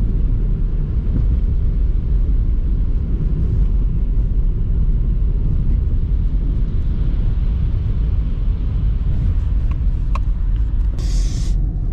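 A car driving along a road: a steady low rumble of engine and road noise. A brief hiss comes just before the end.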